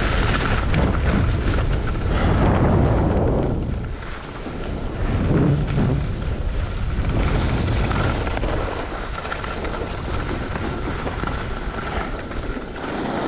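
Wind rushing over the microphone of a skier's camera during a downhill run, a deep buffeting rumble that swells and eases, dipping briefly about four seconds in.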